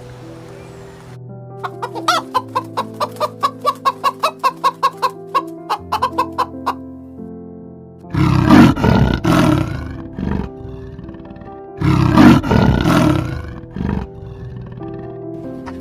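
Chicken clucking in a fast run, about four clucks a second for some five seconds, over background music, followed by two loud harsh animal calls about four seconds apart.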